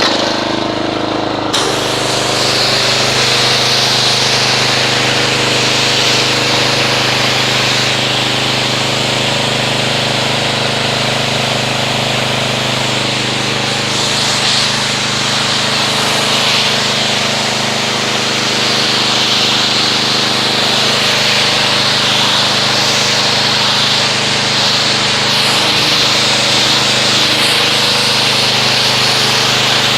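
Gas-engine pressure washer running steadily, with the hiss of its high-pressure spray rinsing car-wash foam off a car; the spray grows brighter about a second and a half in.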